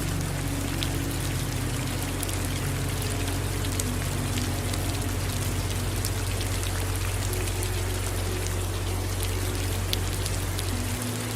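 Steady rain falling, with individual drops ticking against a surface over an even hiss, and a low steady rumble underneath.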